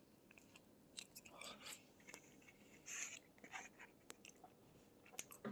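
Faint chewing of a lemon-filled doughnut, with soft, scattered mouth clicks.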